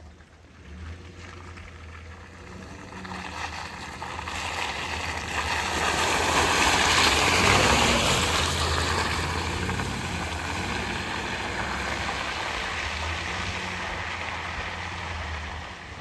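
Pickup truck ploughing through a mud hole: the engine runs under a rush of tyres churning and mud and water spraying. The rush builds over a few seconds, is loudest about halfway through, then eases a little and carries on.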